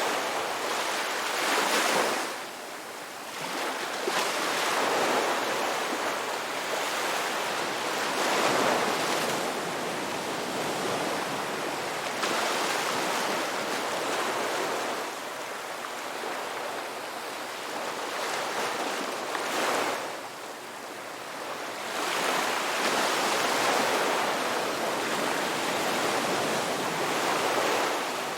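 Ocean waves breaking and washing on the shore, a continuous rush of surf that swells and eases every few seconds.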